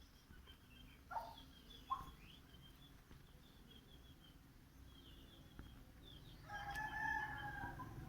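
Aseel rooster crowing once near the end, a single drawn-out crow of about a second and a half, after two short sharp calls at about one and two seconds in. Small birds chirp faintly throughout.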